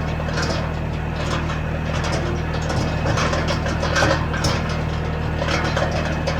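An engine running steadily with a low, even hum, with scattered short clacks and crackles over it.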